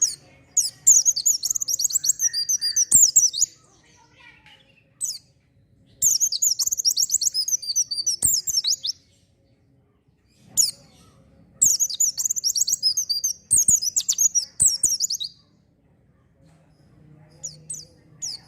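White-eye (pleci) in full, vigorous song: three long, fast, high-pitched twittering phrases of about three seconds each, with short single calls between them.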